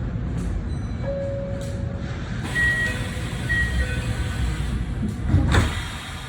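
Inside a Kintetsu 8A series electric train car at departure: a low steady rumble with a few short beep-like tones, and a louder brief burst of noise about five and a half seconds in.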